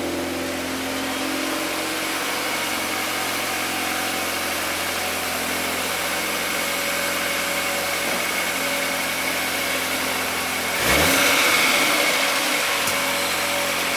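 Volkswagen Golf R's turbocharged four-cylinder engine running at low speed as the car creeps forward and stops, then idling steadily. About 11 seconds in it gets suddenly louder for a moment, then settles.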